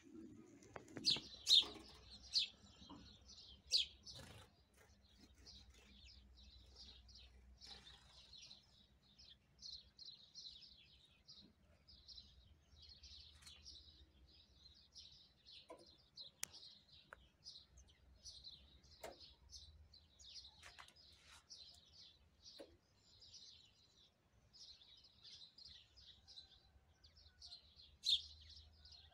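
Small songbirds chirping and twittering, many short calls overlapping without a break, a few louder about a second or two in and near the end.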